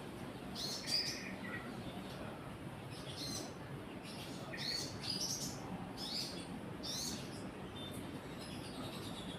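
Small birds chirping: a run of short, high notes, many sliding down in pitch, repeating about once or twice a second.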